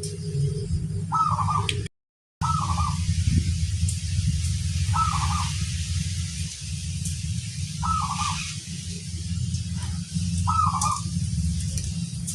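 Zebra dove (perkutut) cooing: five short, repeated coo phrases a few seconds apart, over a steady low hum. All sound cuts out briefly about two seconds in.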